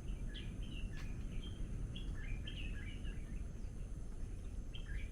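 A small bird chirping in three quick phrases of short, high notes over a steady low rumble.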